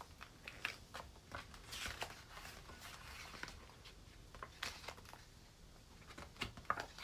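Faint rustling and soft clicks of a paper picture book being handled and its pages turned.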